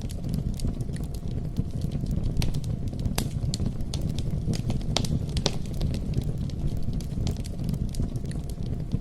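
Campfire burning: a steady low rush with irregular sharp crackles and pops from the burning wood.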